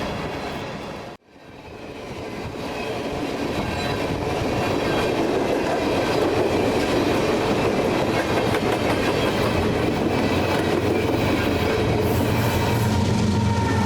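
Freight train of tank cars rolling past, wheels clicking and rumbling over the rails. The sound cuts out abruptly about a second in and swells back up, and a steady low hum joins near the end.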